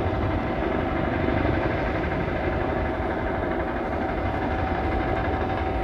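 Jet aircraft engines running steadily, a continuous loud rumble with a constant whine over it.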